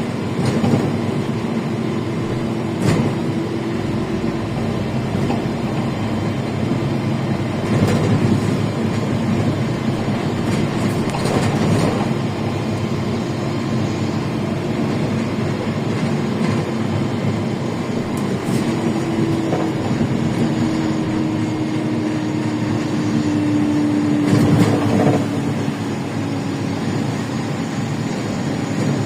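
Cabin noise inside a LiAZ 5292.65 city bus on the move: its Yuchai diesel engine and road rumble run steadily, with a few sharp knocks and rattles of the body over bumps. Near the end the engine note slowly falls as the bus eases off.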